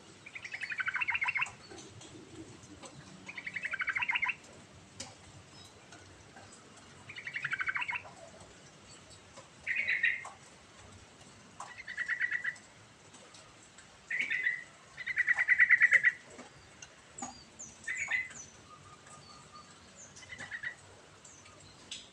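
Yellow-vented bulbul (trucukan) singing: short, bubbling, rapidly warbled phrases repeated every one to two seconds, several of them sliding downward in pitch.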